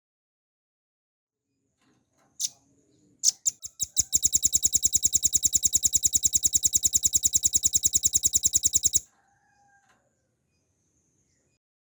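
Velvet-fronted nuthatch calling: a few sharp high notes, then a long rapid trill of evenly repeated notes, about ten a second, lasting about five seconds and stopping abruptly.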